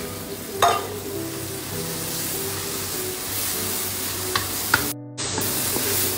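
Cockles sizzling in hot chilli sambal in a stainless steel pan while a wooden spatula stirs and scrapes them around, with a sharp scrape about half a second in.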